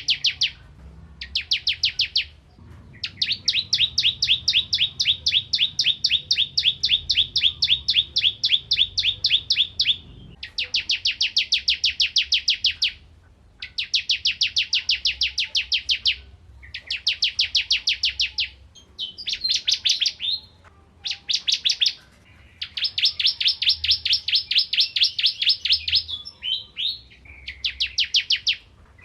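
Ciblek kristal (bar-winged prinia) singing loudly: phrases of fast, evenly repeated sharp chirps, about five a second, some lasting a second, one running about seven seconds, broken by short pauses and a few squeakier twisted notes.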